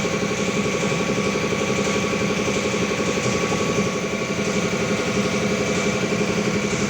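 A small engine or motor running steadily at a constant speed, with a dense rapid pulsing under a few fixed hum tones.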